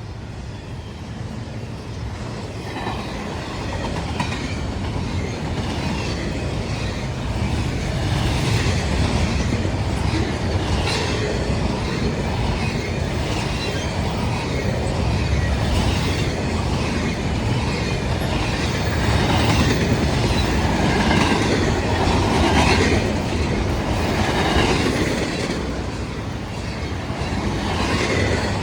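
CSX freight train rolling past, its steel wheels clicking over the rail joints in a steady clatter, with some wheel squeal. The sound grows louder over the first several seconds as the train comes up, then stays loud.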